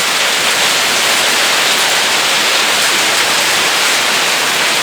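Heavy rain mixed with hail pouring down, a loud steady hiss with no letup.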